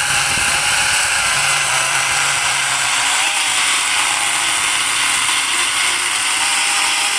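43.2-volt cordless battery chainsaw running steadily at full speed while cutting through a thick branch.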